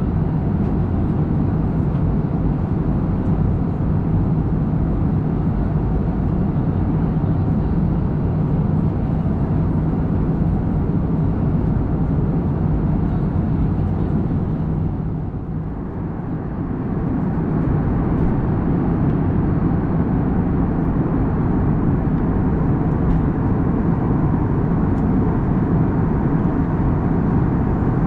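Airbus A321neo cabin noise in flight: the steady roar of airflow and twin turbofan engines heard from an economy seat, with a low steady hum underneath. The level dips briefly about halfway through.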